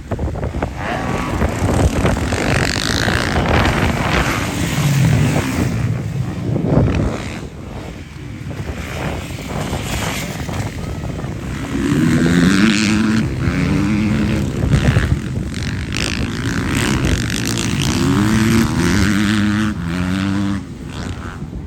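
Motocross bikes racing past, their engines revving in rising notes that drop back in steps as they change gear. The revving comes in waves, strongest a little past the middle and again near the end.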